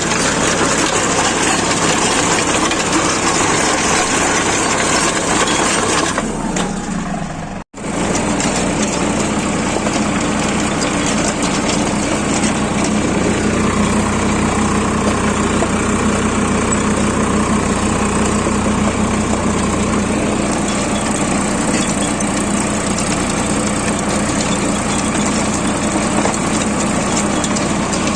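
Sonalika 745 DI tractor's diesel engine running steadily. The sound drops out for an instant about eight seconds in, then goes on with a stronger low hum.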